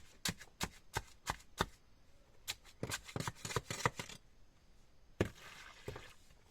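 A run of sharp knocks, like blows of a tool on wood, about three a second, then a looser cluster of knocks, then a short scraping noise about five seconds in.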